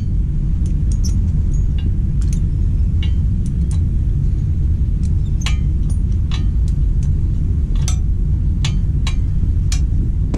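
Irregular sharp metallic clinks of hand tools on the exhaust bolts of a Kawasaki KLX110 pit bike as it is unbolted, roughly one or two a second, over a loud steady low rumble of wind or handling noise on the microphone.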